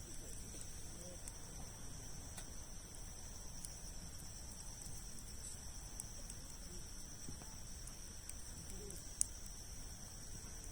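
Campfire of large logs crackling with scattered sharp pops, one louder pop near the end, over a steady high-pitched insect trill.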